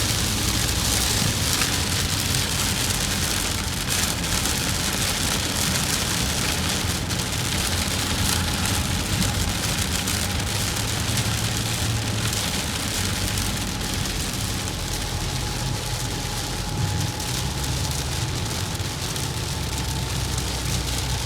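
Steady rain hitting a moving vehicle, with a low road and engine rumble underneath.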